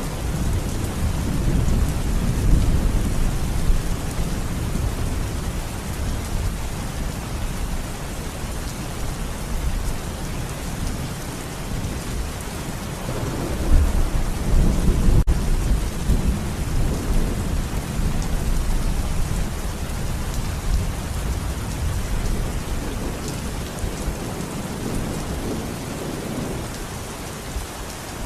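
Steady rain falling with low rolling thunder rumbling through it, the rumble swelling strongest about halfway through.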